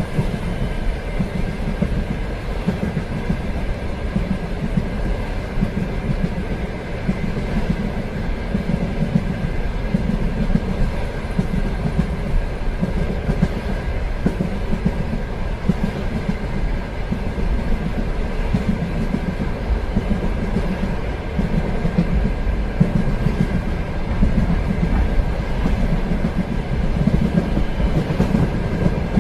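Train running steadily along the rails: a continuous low rumble that swells and eases every second or two, with a faint steady high tone above it.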